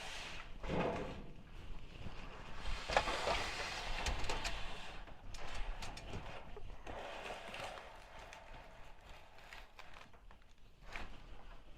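A piece of sheet-metal roofing handled and slid into position to check its fit: irregular scraping and rustling with scattered light knocks, loudest about three to five seconds in and tapering off.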